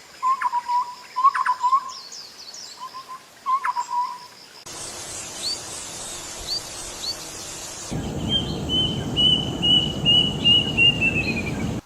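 Birds calling in three short recordings spliced one after another. First, bursts of repeated low chirps with thin high notes above them; then a few short rising chirps over a hiss; then a quick series of about ten notes that slowly drop in pitch over a steady low rumble.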